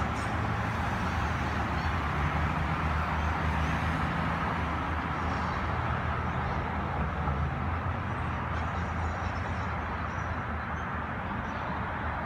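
Steady running noise of a Melbourne B2-class tram, a low hum under a broad rushing sound. The level stays about even, with no clear approach or fade.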